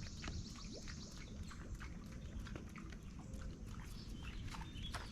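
Outdoor ambience on the water: many short animal chirps and clicks over a low steady rumble.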